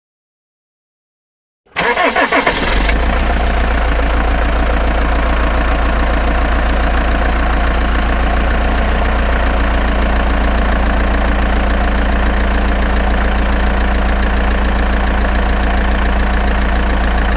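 Vehicle engine starting suddenly about two seconds in, then idling steadily.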